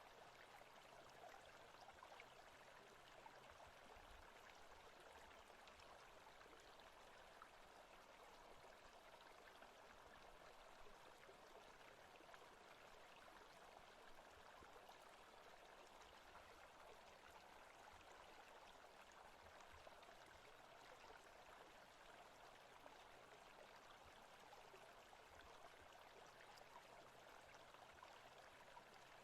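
Faint, steady forest ambience of running water, an even rush with no breaks.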